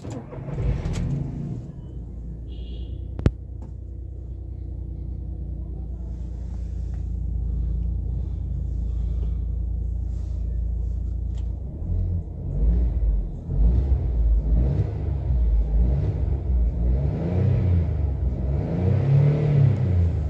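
Volkswagen Polo engine starting on the first try on a cold start after sitting unused for many days, then idling steadily, with one sharp click about three seconds in. From about twelve seconds in it is revved again and again, the pitch rising and falling with each blip.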